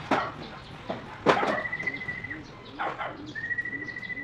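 A dog barks three times, the middle bark loudest. Pigeons coo low and steadily in the second half, and a steady high whistling note sounds twice.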